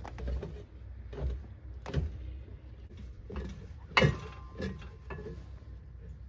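Irregular knocks, scrapes and rubbing as a new motorcycle tire is handled against its wheel rim during mounting, the loudest knock about four seconds in.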